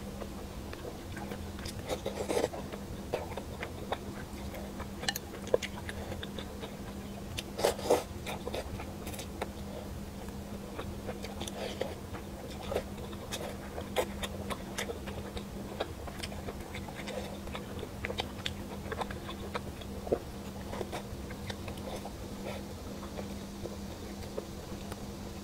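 Close-miked eating of spicy braised fish: chewing and wet mouth sounds, with scattered short clicks and smacks, the loudest about two and a half seconds in and near eight seconds. A steady low hum runs underneath.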